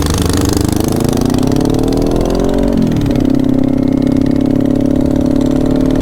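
Kawasaki Ninja 400 parallel-twin engine pulling away under throttle. The revs climb for about two seconds, fall sharply with an upshift about three seconds in, then hold steady in the next gear.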